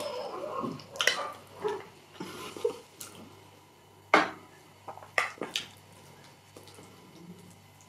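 Close-miked eating sounds: chewing a mouthful of rice and beans porridge, with a few sharp clicks and smacks, the loudest about four seconds in.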